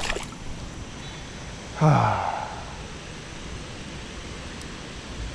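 Steady wash of flowing river water, with a man's short sigh falling in pitch about two seconds in.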